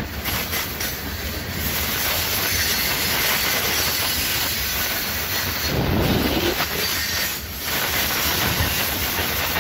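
Loaded coal cars of a long coal train rolling past: a steady rumble and rush of steel wheels on rail with clickety-clack. The low rumble swells briefly about six seconds in.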